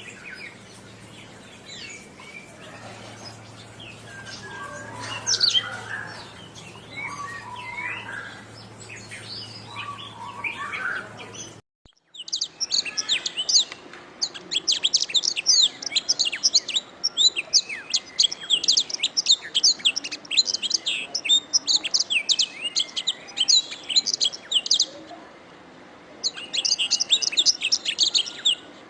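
Domestic canary singing. First a softer, varied warble over a low steady hum; then, after a brief break, loud rapid trills of high notes that pause for a moment near the end and start again.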